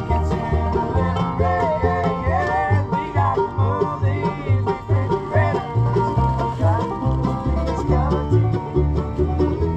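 Acoustic bluegrass band playing an instrumental passage: a banjo rolling over guitar, with a steady bass line alternating about two notes a second and sliding melody notes above.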